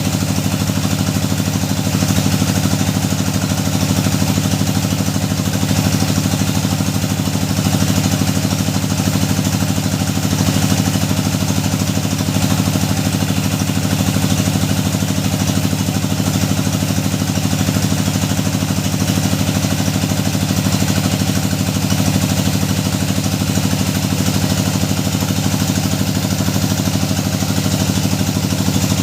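Engine of a hydraulic deep-well drilling rig running steadily at constant speed.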